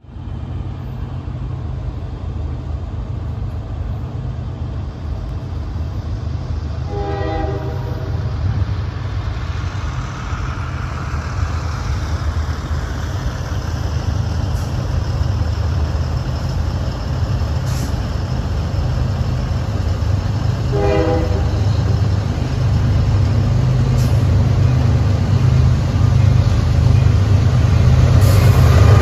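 CSX diesel freight locomotives approaching, their engines' low rumble growing steadily louder, with the train horn sounding two short blasts, about a quarter of the way in and again about two-thirds of the way through.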